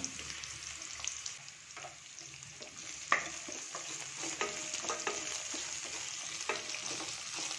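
Chopped onion sizzling steadily in hot oil in a stainless steel kadai while a wooden spatula stirs it. The spatula knocks sharply against the pan about three seconds in, with lighter clicks and scrapes after.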